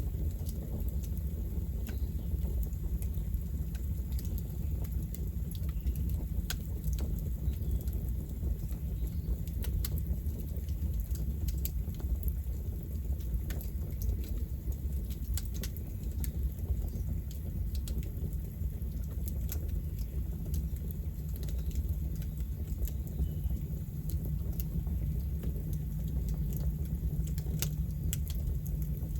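Campfire burning: a steady low rumble of the fire with frequent, irregular sharp crackles and pops from the burning wood.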